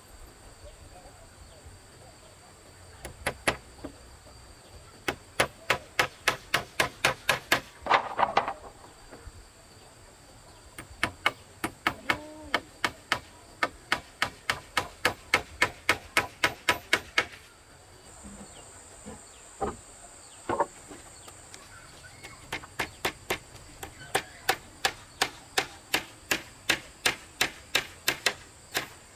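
Hand-tool strikes in quick, even runs of about three a second, pausing now and then, as a gate is built. Insects buzz steadily behind.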